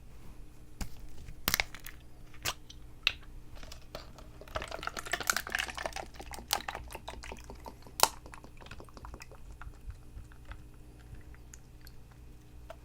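Close-up handling of a watermelon drink in its cup: sharp taps and clicks, then a stretch of liquid sound about halfway through, followed by a run of quick small clicks.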